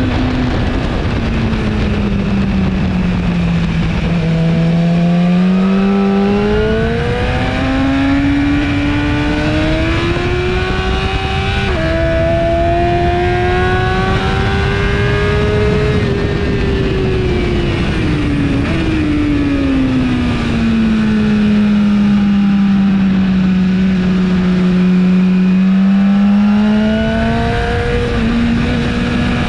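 2017 BMW S1000RR inline-four engine through an Akrapovic exhaust, ridden hard on track. The revs climb steadily under acceleration, with a small step about twelve seconds in as it shifts up. They then fall away for several seconds as the bike slows, hold low and steady, and climb again near the end. A steady rush of wind noise runs underneath.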